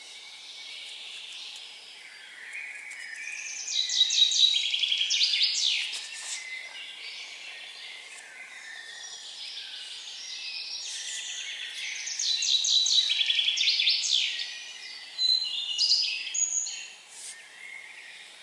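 A songbird singing: two similar phrases about eight seconds apart, each a fast run of repeated notes, with shorter calls near the end, over a faint steady background hiss.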